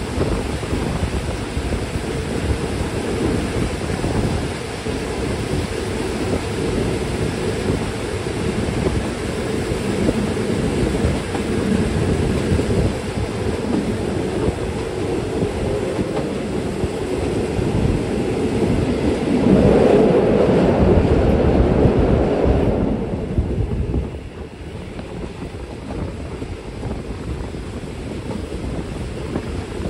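Passenger train running along the track, heard from aboard a carriage: a steady rumble of wheels on rails. It swells louder for a few seconds about two-thirds of the way through, then drops to a quieter level.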